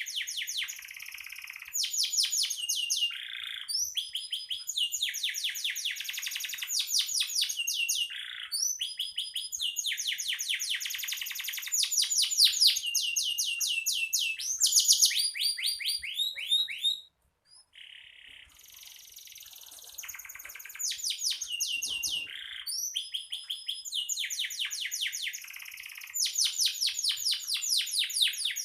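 Domestic canary singing steadily in long phrases of fast rolling trills, rapid runs of repeated high notes, with one short pause a little past the middle.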